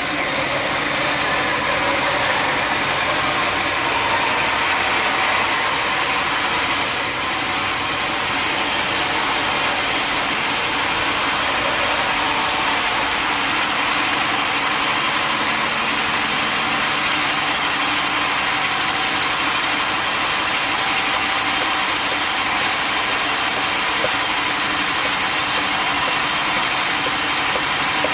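Sawmill machinery running steadily: a continuous engine-like drone with a dense hiss, unchanging in level.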